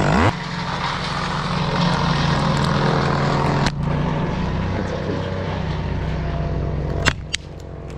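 Small chainsaw revving up and running steadily at speed through a cut in a conifer. About seven seconds in there is a sharp crack and the saw drops back to a quieter idle.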